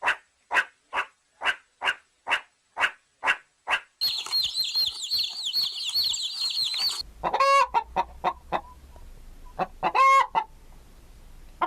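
Chickens calling: a steady run of short clucks, a little over two a second. Then a few seconds of dense high-pitched peeping, and near the end a few louder, drawn-out hen calls.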